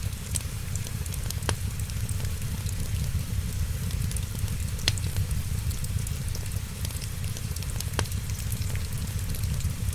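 Wood fire crackling in a fireplace, with a few sharp pops over a steady low rumble.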